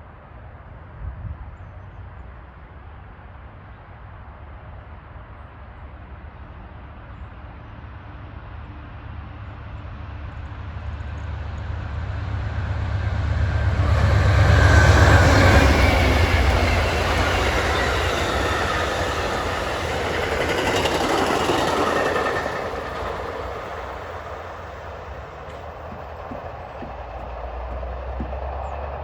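Amtrak passenger train led by three diesel locomotives approaching and passing: the deep engine rumble builds to its loudest about fifteen seconds in, then the clatter of wheels on the rails from the short string of cars carries on until about twenty-two seconds and fades away.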